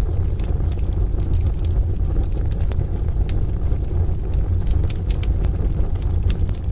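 Wood fire crackling with sparse, irregular sharp pops over a steady low rumble of rain.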